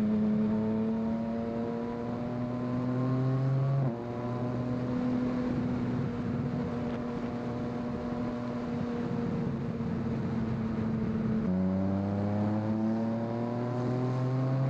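Yamaha MT-09 three-cylinder motorcycle engine pulling away under throttle, its pitch climbing steadily, then dropping at a gear change about four seconds in. It holds a steady note while cruising, shifts again near the end and climbs once more.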